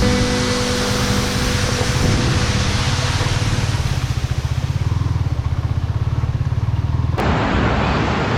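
Motorcycle engine running with a rapid low pulsing while riding, with rushing wind noise over it; the hiss changes abruptly about seven seconds in.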